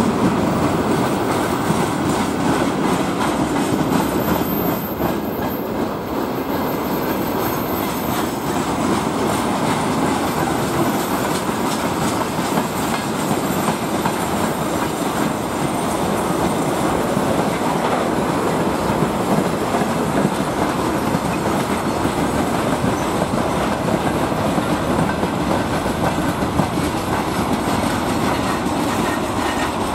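A train running on the track: the steady, loud rolling noise of its wheels on the rails.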